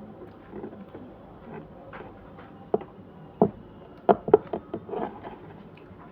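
Eating noises: a string of short clicks and taps, mostly in the second half and loudest about four seconds in, over a low background.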